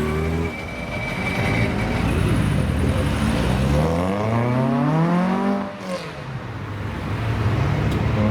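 Car engine revving under acceleration: the pitch climbs steadily from about four seconds in, drops off sharply just before six seconds, then settles to a lower, steady note.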